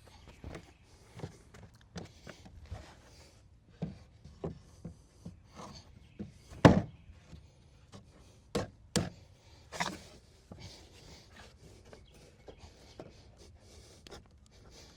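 Irregular knocks and thumps of wooden boards being handled and knocked together. The loudest thump comes a little under seven seconds in, with a few more strong knocks around nine to ten seconds in.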